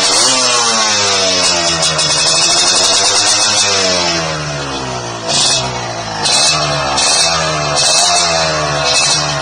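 Motorcycle engine revved through a chrome "king udang" racing exhaust, the pitch rising and falling with the throttle over and over, with shorter, quicker blips in the second half.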